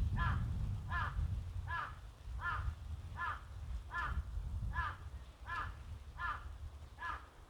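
A crow cawing in an even series of ten calls, about one every three-quarters of a second, over a low wind rumble that fades away.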